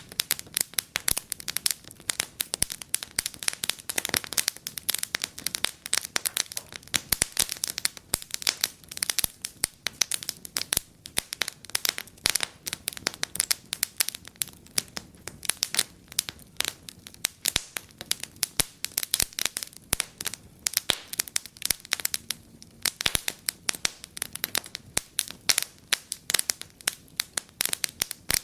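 Wood fire in a fireplace crackling steadily, with dense irregular pops and snaps.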